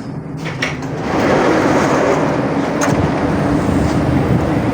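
Siemens Inspiro metro train running, heard from inside the carriage: a steady rumble of the wheels with a low motor hum, growing louder about a second in, and a single sharp click near the middle.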